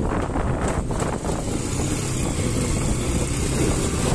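Motorcycle engine running steadily while riding, a continuous low hum under road noise.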